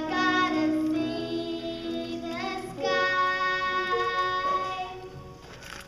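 Children singing a song with musical accompaniment, in long held notes; the last note fades out near the end.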